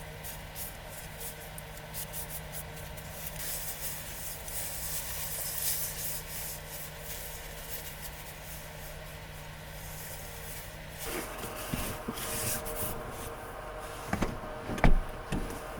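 Soft rustling and rubbing of things being handled, over a faint steady hum, with a few sharp knocks near the end.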